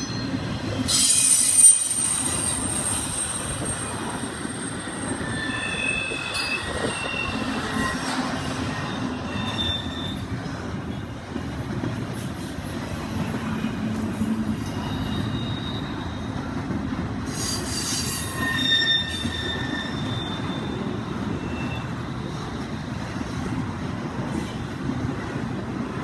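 Norfolk Southern double-stack intermodal freight train rolling past: a steady rumble of wheels on rail with high-pitched wheel squeals coming and going, sharpest about a second in and again around eighteen seconds in.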